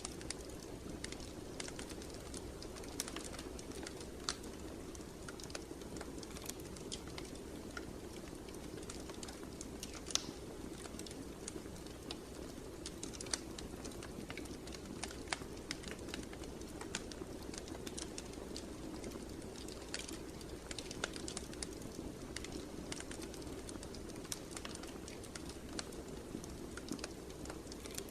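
Wood fire in a fireplace crackling, with many small sharp pops scattered irregularly over a steady low rush of burning.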